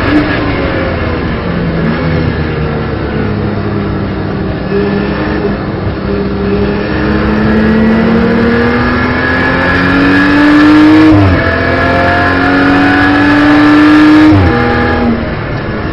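BMW M240i Racing Cup's turbocharged straight-six heard from inside the cockpit, pulling through a gear with the revs rising slowly for several seconds. About eleven seconds in it changes up with a sharp drop in pitch, climbs again, and the revs fall away near the end.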